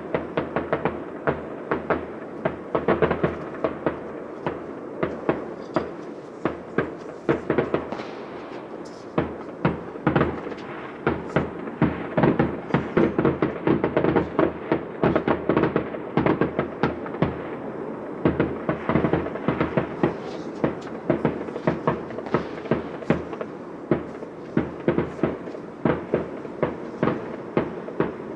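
New Year's Eve fireworks going off nonstop: a dense rattle of sharp bangs and crackles, several a second and overlapping.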